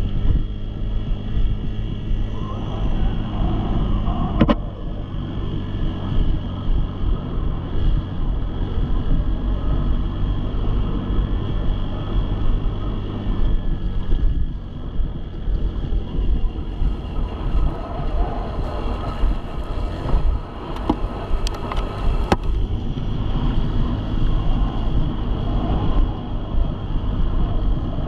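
Dirt bike engine running with its loudness rising and falling, plus a few sharp clicks.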